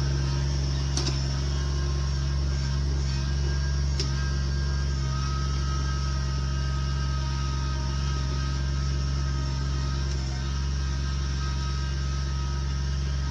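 Engine of a wheeled land-clearing machine running steadily at a constant speed, with two short clicks about one and four seconds in.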